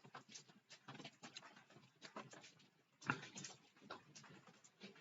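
Near silence with faint, irregular drips and taps of light rain, one a little louder about three seconds in.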